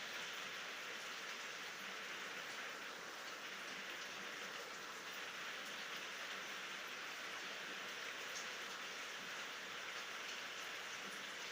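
Steady rain, an even hiss of falling drops without thunder.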